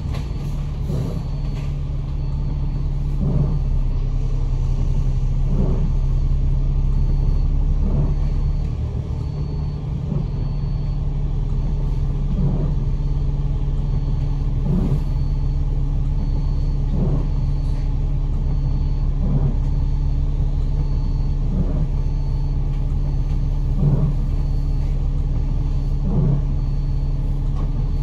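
Kowloon Motor Bus double-decker heard from inside, its engine humming steadily as it drives. A soft swish repeats evenly about every two seconds, and a faint high beep repeats about once a second.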